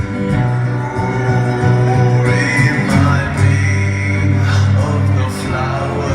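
Live acoustic rock music: a guitar-driven band holding sustained low notes, with a voice singing over it.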